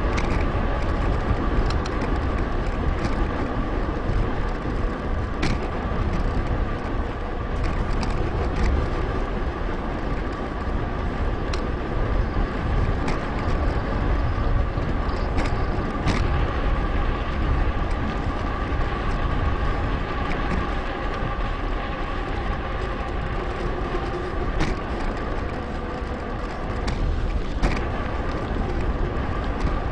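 Riding noise on a bicycle-mounted action camera: steady wind rumble on the microphone, a thin steady whine, and scattered clicks and ticks from the bike over the path.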